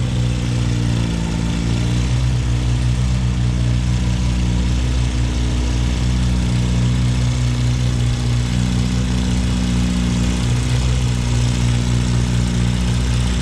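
Antique farm tractor engine running loud and steady at constant speed, its low pitch dipping slightly now and then.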